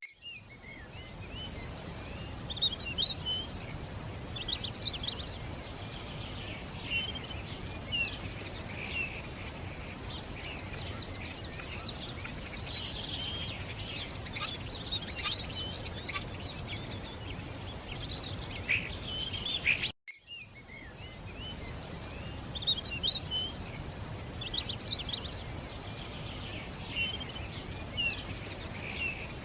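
Many small songbirds chirping and twittering in quick, overlapping calls over a steady background hiss. The sound cuts out for a moment about twenty seconds in, then the chirping starts again.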